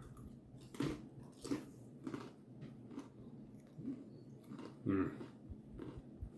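A person chewing crunchy Cheez-It Grooves crackers close to the microphone, with an uneven crunch every half second to a second, the loudest about five seconds in.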